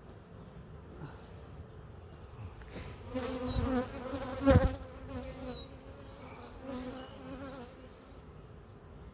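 Honeybees buzzing around the microphone. One bee's buzz grows loud in the middle as it flies close, then fades. There is a brief knock about four and a half seconds in.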